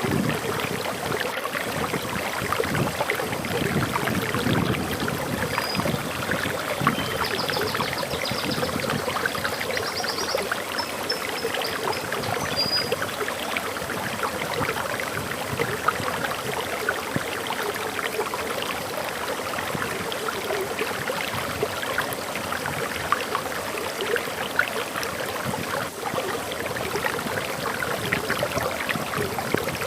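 Waterfall splashing and flowing steadily, with a bird chirping a short series of high notes from about six to thirteen seconds in.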